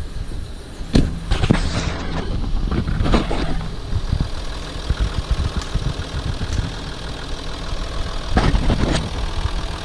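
2016 Ford Territory's V6 turbodiesel idling smoothly on fresh oil just after the oil change, with a few sharp knocks over it.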